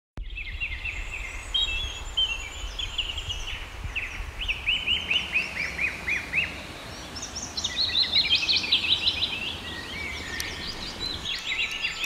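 Several small birds chirping and singing, in rapid runs of short, falling notes that overlap, with a low rumble underneath during the first half.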